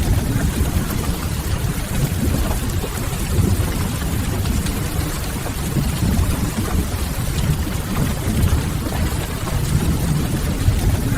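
Steady rain mixed with a wood fire, a deep constant rumble under an even hiss with faint scattered crackles.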